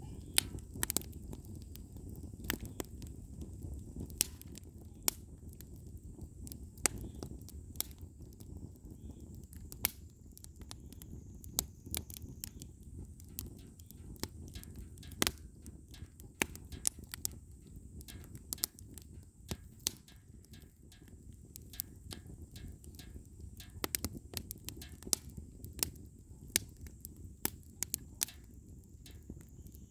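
Firewood burning, with irregular sharp pops and crackles over a low, steady rumble.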